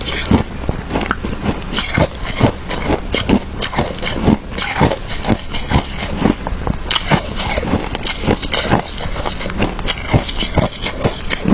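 Close-up chewing of crunchy shaved ice, a fast, irregular run of sharp crunches several times a second.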